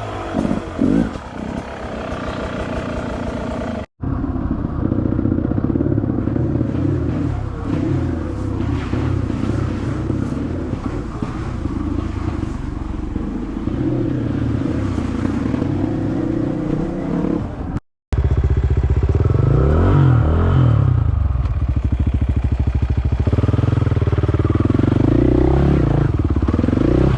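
Dirt bike engine running under riding load, its pitch repeatedly rising and falling as the throttle is opened and closed. It cuts out abruptly twice, about 4 seconds in and about 18 seconds in, and picks up again each time.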